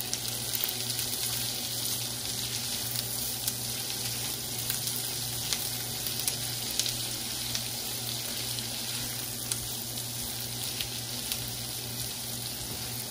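Sliced bell peppers and onions sizzling steadily in a hot cast-iron skillet, stirred with a silicone spatula that scrapes and taps against the pan now and then.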